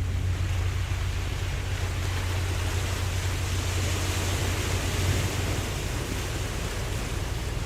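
Ocean waves washing, one surge of surf building and easing off about midway, over a steady low rumble.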